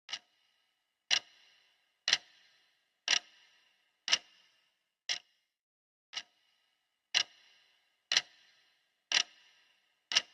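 Clock ticking steadily, one sharp tick a second, some ticks louder than others, each with a short ringing tail.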